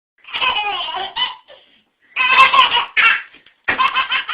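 A baby laughing hard in three bursts of high-pitched giggles, with short pauses between them.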